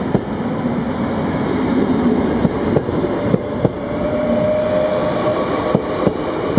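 NS VIRM double-deck electric train running past close by: a steady rumble of wheels on rails with sharp clacks every so often, and a thin steady tone coming in about halfway through.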